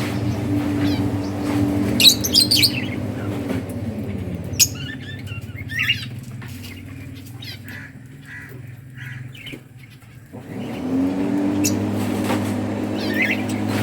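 Budgerigars chirping and twittering in short scattered bursts over a steady low motor hum. The hum winds down about four seconds in and spins back up near the ten-second mark.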